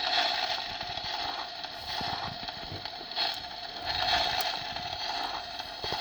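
A stove's built-in sound effect, most likely a toy kitchen stove: a steady crackling hiss played through a small speaker.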